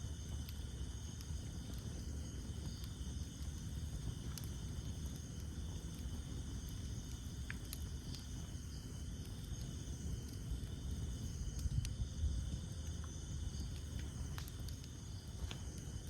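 Campfire of burning wood with scattered sharp crackles and pops over a steady low rumble of flames, a little louder about twelve seconds in. A steady high chirring of night insects carries on behind it.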